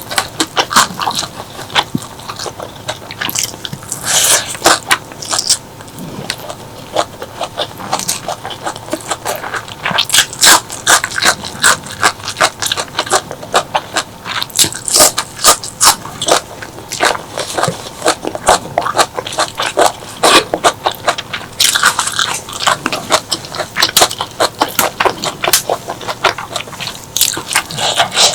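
Close-miked eating: chewing with many sharp, irregular crunches and wet mouth smacks, continuous throughout.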